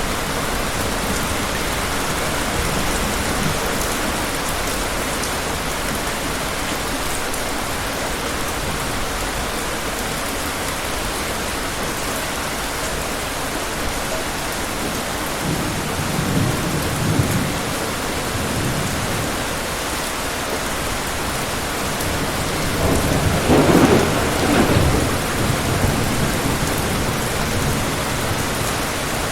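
Steady heavy rain with distant thunder rumbling twice, a low rumble about halfway through and a louder one about three quarters of the way in.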